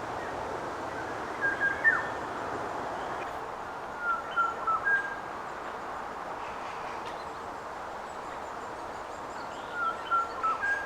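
A songbird singing three short whistled phrases of a few notes each, a few seconds apart, over a steady background hiss.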